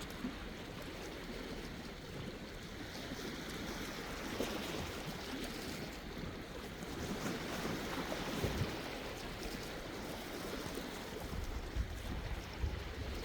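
Sea waves washing in and out, a steady surf noise that swells and eases, with a low wind rumble on the microphone near the end.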